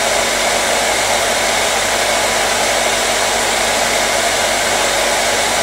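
Hair dryer running steadily: a constant rushing blower noise with a faint motor hum underneath, unchanging throughout.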